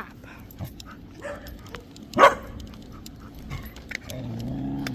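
A dog barks once, sharply, about two seconds in. Near the end comes a short, low, steady rumble.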